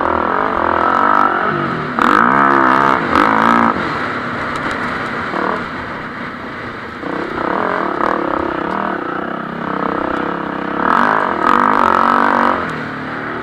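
Motocross bike engines revving on the track, pitch climbing and dropping with throttle and gear changes. Loud surges come near the start, at about two to four seconds, and again near the end.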